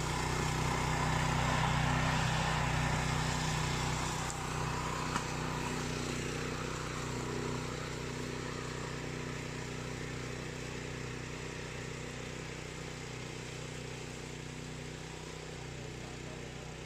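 Remote-control flail mower's engine running steadily, growing gradually fainter as the machine works away, with a single short click about five seconds in.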